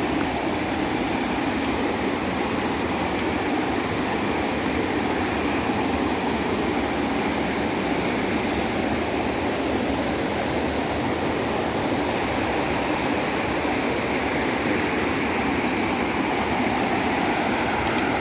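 Waterfall and rocky stream rushing: a loud, steady, unbroken rush of water.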